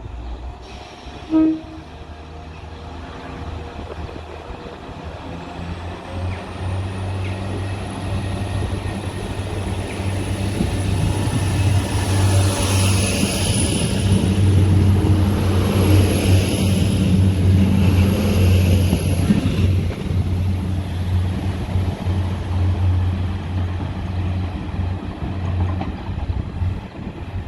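Diesel multiple unit's engine running as the train moves past. The rumble builds to a peak about halfway through, then eases, over a steady high-pitched whine. A short, sharp tone sounds about a second in.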